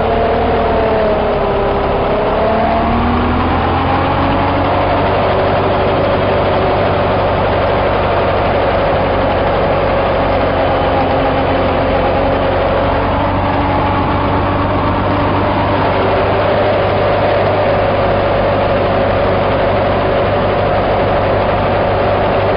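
T-40AM tractor's air-cooled diesel engine running, its speed sagging briefly about two seconds in and then recovering to a steady speed.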